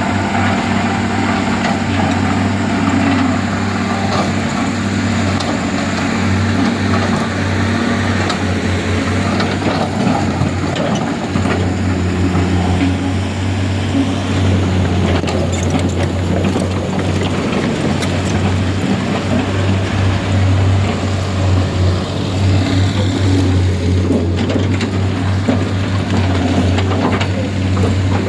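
An engine running steadily at an even pitch, with clattering mechanical noise over it.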